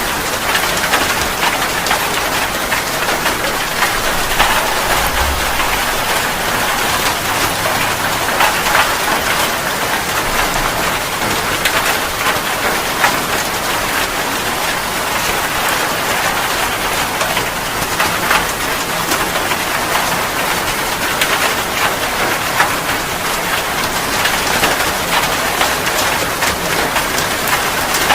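Steady, heavy rain, a dense patter of raindrops falling on a surface.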